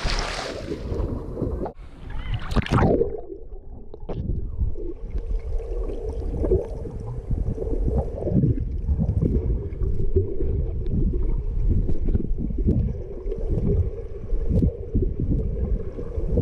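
Underwater sound picked up by a GoPro Hero camera: a brief rush of splashing in the first few seconds, then a muffled low rumble of moving water with many soft knocks against the camera and a faint steady hum.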